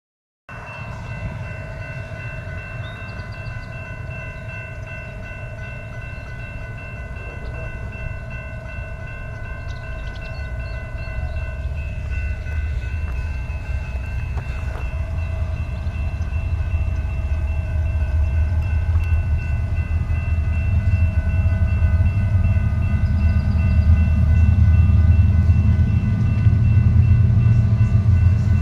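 Freight train approaching: the low rumble of its diesel locomotives grows steadily louder over the second half. Several steady high-pitched tones sound together throughout.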